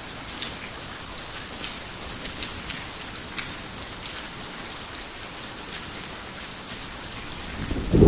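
Heavy rain falling steadily, with scattered sharp drop splashes close by. A low rumble of thunder starts to swell right at the end.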